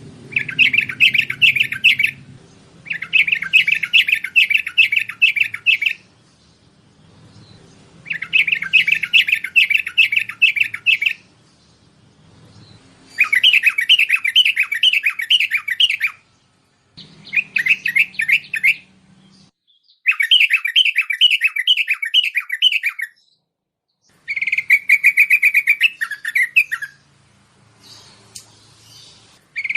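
Bulbul song: about eight phrases of fast, repeated chirping notes, each two to three seconds long, with short pauses between them. Near the end the notes run together into a steadier whistle.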